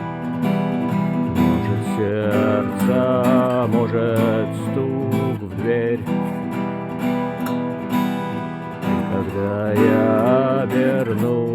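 Acoustic guitar strummed in a steady rhythm, with a voice singing along over it for most of the stretch.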